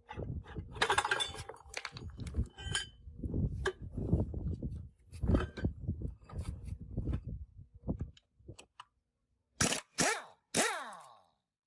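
Metal parts and hand tools being handled at a workbench: a run of knocks, clinks and scrapes, then three sharp metallic clanks near the end, the last one ringing with a falling pitch.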